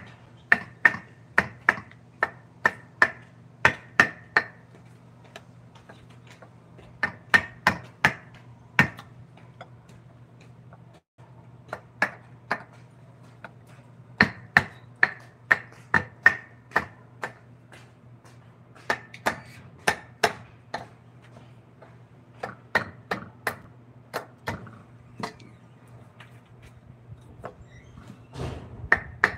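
Mallet striking a woodcarving chisel in runs of sharp taps, about two a second, with pauses between runs; each tap rings briefly.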